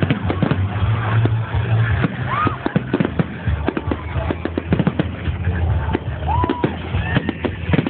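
Fireworks display: a rapid, continuous run of bangs and crackling pops from bursting shells.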